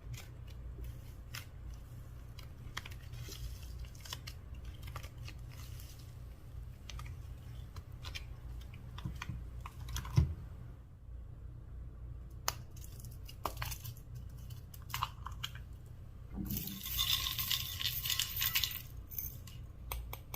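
Slime and makeup being handled and mixed by hand: scattered small clicks and crackles, one louder knock about ten seconds in, and a dense crackling, hissing stretch a few seconds before the end, over a steady low hum.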